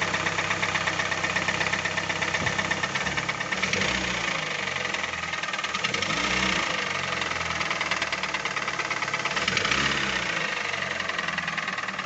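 Hyundai i40's 2.0 G4NA four-cylinder petrol engine running with a fast, steady knock, revved up twice. The knock comes from scuffed cylinder walls in cylinders one and four, which were found scored when the engine was stripped.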